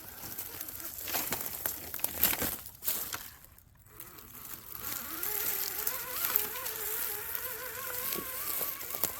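Small electric motor of an RC crawler whining as it drives, the pitch wavering up and down with the throttle from about five seconds in. Before that, scattered clicks and rustling, with a brief lull after about three seconds.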